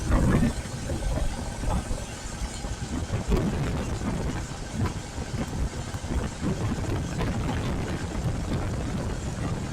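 A Royal Enfield Classic 350's single-cylinder engine running under way on wet roads in heavy rain, with uneven wind buffeting on the camera's microphone, heaviest at the very start.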